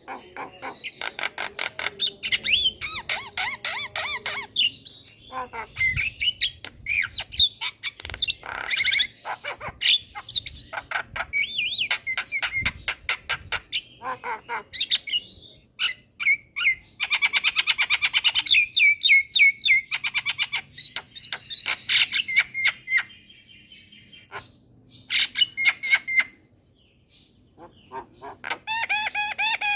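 Javan myna singing a long, varied, chattering song: rapid repeated notes, trills, whistled glides and harsh squawks, with a short break near the end.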